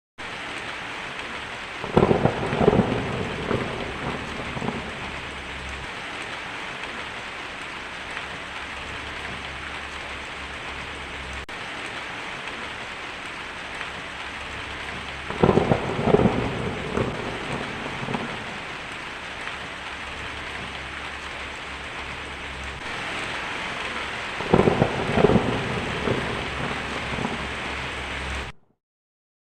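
Heavy rain falling steadily on a tin roof, with three loud claps of thunder rolling off into rumbles: about two seconds in, midway, and near the end. The sound cuts off suddenly shortly before the end.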